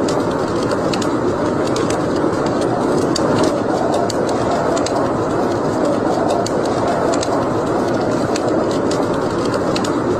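Wood fire burning in a fireplace: a steady rushing noise with frequent irregular sharp crackles and pops.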